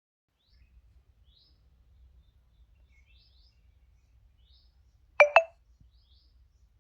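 Faint small-bird chirps, short rising notes repeating every half second or so, over a low rumble; about five seconds in come two sharp clicks in quick succession, the loudest sounds.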